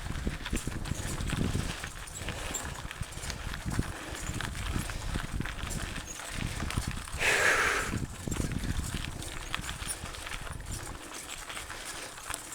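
Mountain bike clattering over a rough trail: a dense run of irregular knocks and rattles from the frame and tyres striking rocks and roots, with a short hissing burst of noise about seven seconds in.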